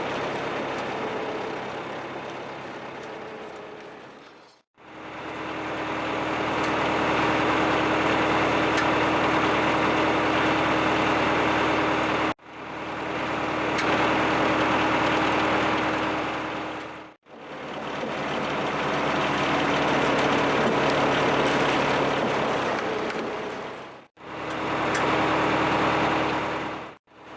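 Farm tractor diesel engine running steadily, heard in several stretches broken by abrupt cuts to silence, each stretch fading back in.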